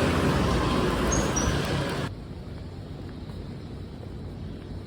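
Road traffic noise from a busy street, loud and even, cutting off abruptly about two seconds in to a much quieter low background hum.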